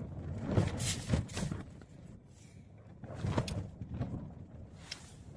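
Strong wind gusting against a camping tent, the fabric flapping and rustling in uneven surges, strongest in the first second and a half and again about three seconds in.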